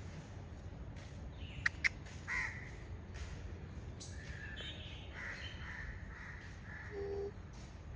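Short bird calls repeated several times over a steady low background noise, with two sharp clicks about two seconds in.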